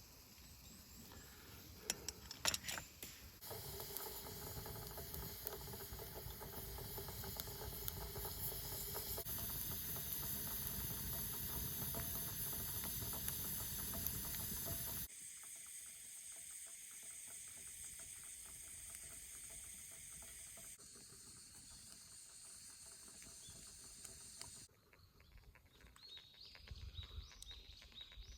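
Campfire cooking sounds: a steady hiss of food and fire with scattered crackles and pops, which changes abruptly at several cuts and is loudest in the first half.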